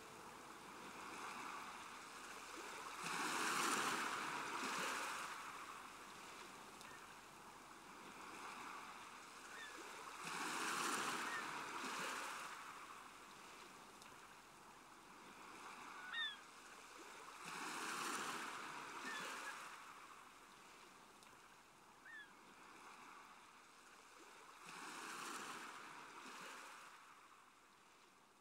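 Faint sound of ocean waves washing in and receding, a slow swell about every seven seconds, with two brief high chirps in the second half.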